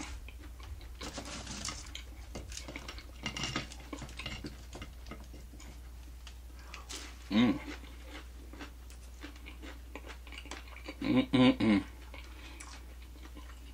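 Close, crisp clicking and crunching of a person eating and handling fried food, a quick run of small ticks, with a short hummed voice sound about seven seconds in and another near the end.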